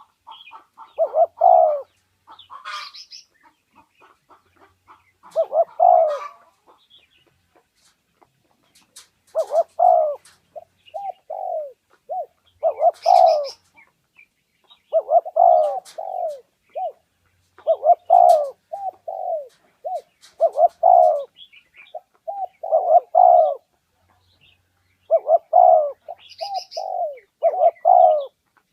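Spotted dove cooing in repeated short phrases of low coos, spaced out at first and coming in quicker succession through the second half, with a few faint higher chirps between them.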